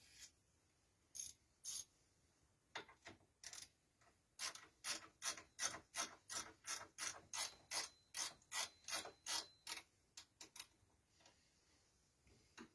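A hand tool scraping wood in short, even strokes, about three a second, with a few scattered strokes before and after the steady run.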